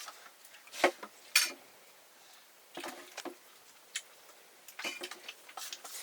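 Metal kitchen utensils clinking and clattering against pots and dishes in irregular short knocks, the two loudest about a second in.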